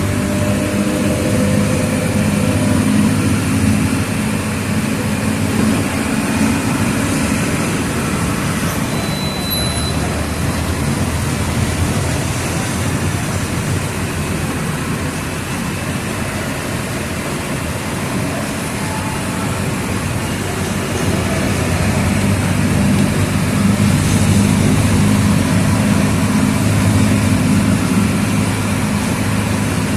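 Diesel engine of a Mercedes-Benz OF 1722M city bus running while the bus drives. The engine note is strong at first, eases off through the middle, and builds up again about two-thirds of the way through.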